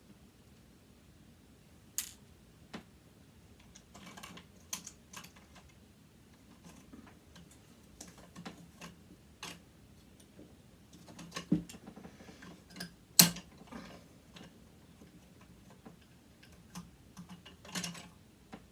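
Scattered clicks, taps and light scrapes of hand tools and small metal parts while a sewing machine motor is being dismantled, with the sharpest clicks about two seconds in and around thirteen seconds.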